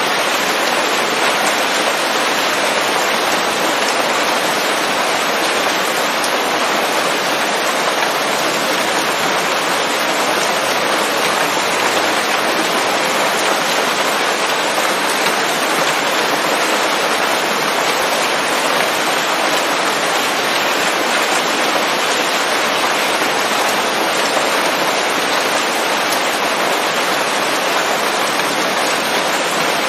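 Steady rain falling on leaves: an even, unbroken hiss without thunder.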